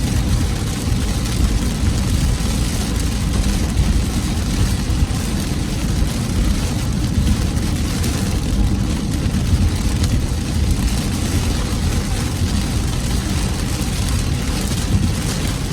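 Torrential rain pelting a car's roof and windshield, heard from inside the moving car over a low rumble of road and engine noise.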